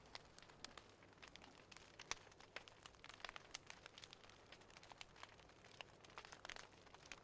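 Faint wood fire crackling, with small irregular snaps and pops.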